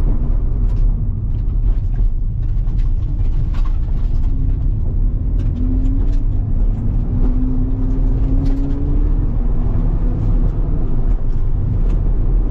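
Mazda RX-7 FD3S's twin-turbo 13B two-rotor rotary engine under hard driving, its pitch rising and falling repeatedly as the throttle is worked through the course's corners, over a heavy low rumble.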